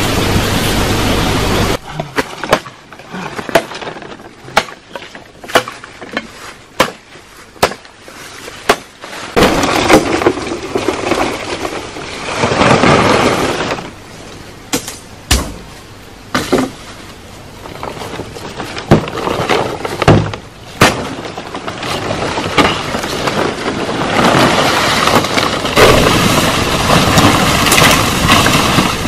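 A series of sharp, irregularly spaced knocks and cracks, with a steady hiss in parts.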